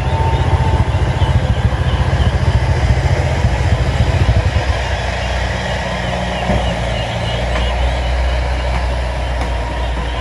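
An engine running steadily, with a low rumble that settles into a steadier, deeper hum about seven seconds in.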